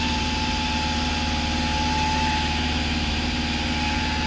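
Cessna 172's piston engine and propeller droning steadily in cruise, heard inside the cockpit, with a thin steady whine above the drone.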